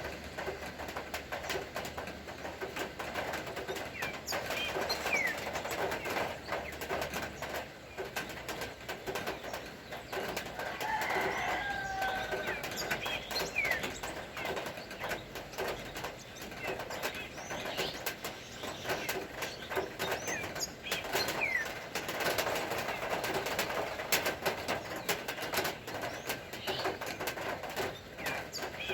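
Steady rain with many small drop ticks, and birds calling now and then over it: short falling whistles and a brief dove-like call about eleven seconds in.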